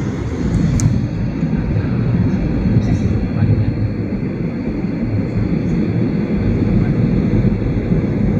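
Steady low rumble of a Batik Air airliner landing.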